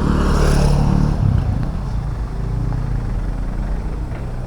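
Motor vehicle engine running, loudest with a rush of hiss in the first second or so, then a steadier low hum.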